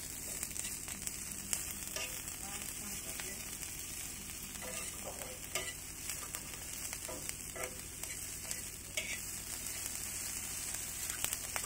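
Small whole prawns sizzling steadily in hot oil in a pan while a wooden spatula stirs them, with irregular scrapes and taps of the spatula against the pan.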